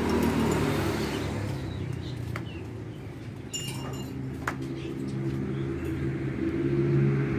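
Mitsubishi Canter truck's diesel engine idling through an aftermarket 'wolf sound' exhaust. The pitch steps up slightly about halfway and the sound grows louder near the end as the engine is revved.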